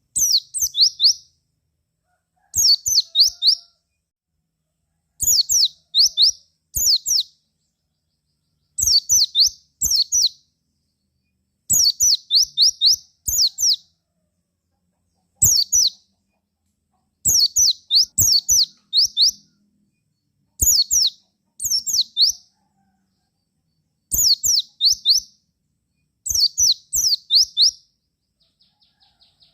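White-eye (pleci) calling in short bursts of several quick, high chirps that slide downward, repeated about every one to two seconds with silence between. Near the end a faint, fast buzzy trill comes in.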